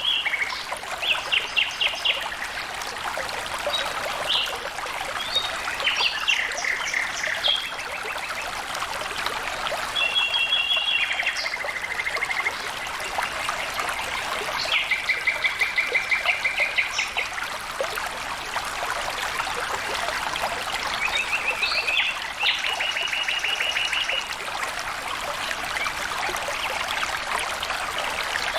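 Water trickling and flowing steadily, with a songbird singing several short bouts of fast trills, each a rapid run of repeated notes.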